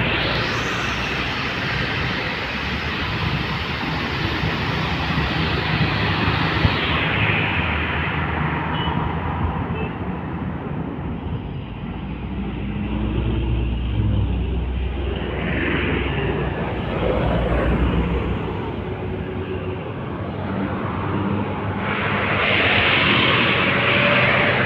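Road traffic passing close by: heavy trucks going past, engine hum under tyre and wind noise, with louder passes at the start and again near the end.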